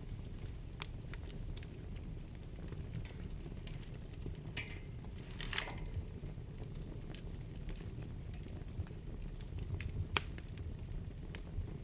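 Wood fire burning in a fireplace: irregular crackles and snaps of the burning logs over a steady low rumble, with a flurry of crackles about halfway through and one sharp pop near the end.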